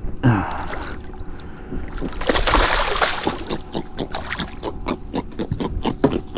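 Hooked fish splashing at the surface beside the boat, followed by a fast run of short clicks.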